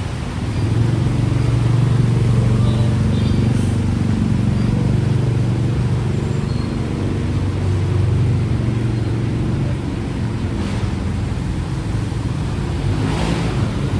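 Street traffic: a motor vehicle's engine running close by with a steady low hum that swells about a second in and holds for several seconds.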